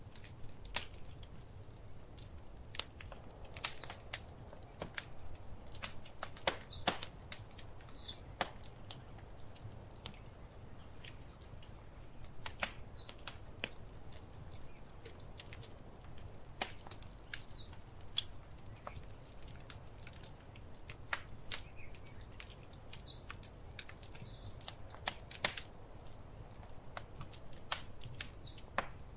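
Wood fire crackling in a fireplace: irregular sharp pops and snaps over a low steady rumble of the burning, with a few brief high hissing squeals from the wood.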